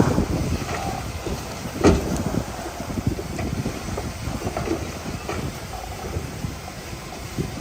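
Crawler bulldozer at work: its diesel engine running under a dense clatter of steel tracks and stone, with a sharp loud knock about two seconds in.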